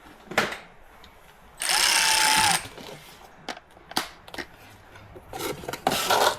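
Tools working a bolt on a car's rear shock mount: a few sharp clicks and knocks, then a burst of rapid mechanical rattling lasting about a second, about two seconds in. A shorter rattling stretch follows near the end.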